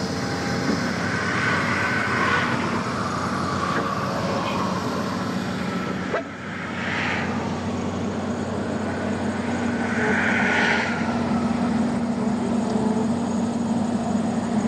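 A heavy vehicle's engine running steadily with a low hum, and a short click about six seconds in.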